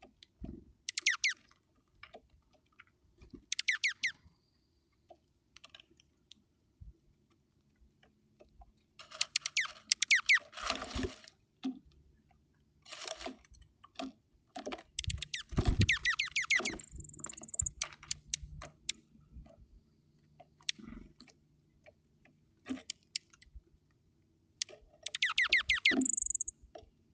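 Dark-eyed junco pecking at seed on a feeder: bursts of quick, sharp clicks lasting about half a second to two seconds, with pauses between them.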